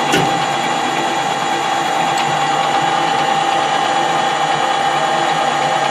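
Metal lathe running with a steady gear whine, and a single sharp click just after the start.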